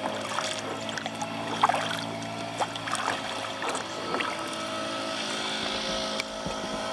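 Kayak paddling: the paddle blades dipping and dripping water, heard as short splashes and ticks over a steady hum.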